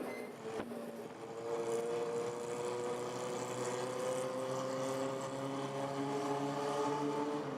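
Honda CB400Four's inline-four engine running through an aftermarket muffler, its pitch climbing steadily for several seconds as the bike pulls, then easing off near the end.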